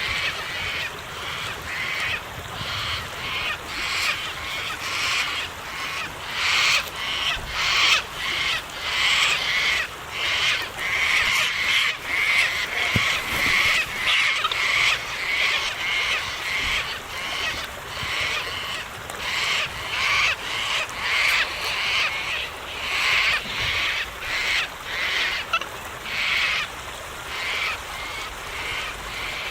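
Parrots calling: a dense run of short, loud calls, about one or two a second, with several birds overlapping.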